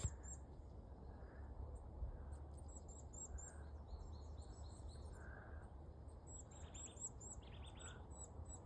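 Faint small-bird calls: runs of short, very high, thin notes repeated several times a second, with a few lower buzzy notes near the end, over a steady low rumble.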